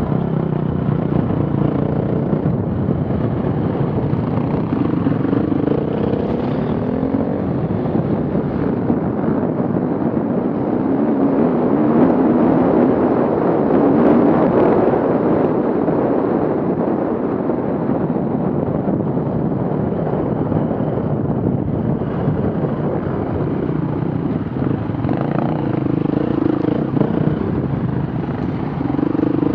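Off-road vehicle engine running and revving, its pitch rising and falling. It gets louder and rougher about twelve to fifteen seconds in.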